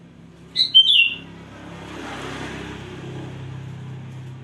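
A bird calls a few quick, loud chirps about half a second in. After the chirps comes a steady low hum with a faint hiss.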